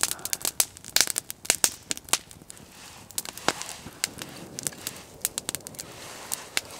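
Campfire of dry deadwood crackling, with sharp pops coming thick in the first couple of seconds and more sparsely after, over a soft hiss.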